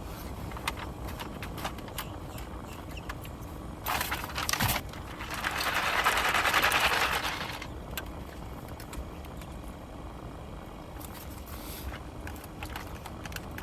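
Takeout food packaging being handled: scattered clicks and rustles, with a longer hissing rustle that swells and fades about five to eight seconds in, over a steady low rumble.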